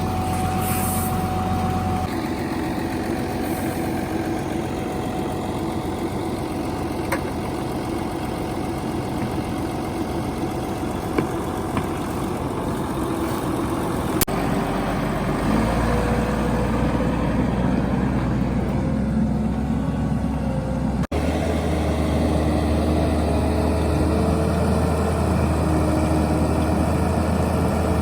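Heavy diesel engine of a New Holland TV140 bi-directional tractor running steadily, its engine speed shifting a couple of times. There is a brief dropout about 21 s in.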